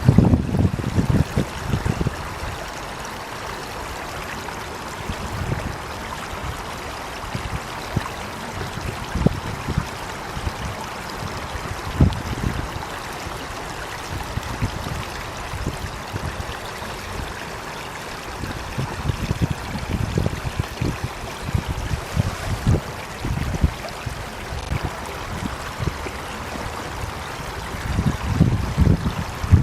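Water flowing and splashing: a steady rush with irregular low thuds, heavier near the start and the end.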